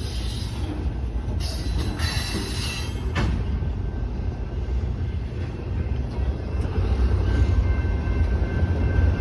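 Union Pacific freight train rolling past: a steady low rumble of passing freight cars, with high wheel squeal in the first three seconds and a thin steady squeal tone after that.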